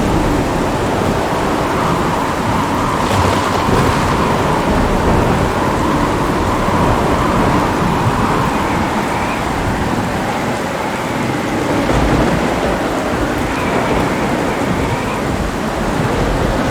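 Heavy rain falling steadily, with thunder rumbling low.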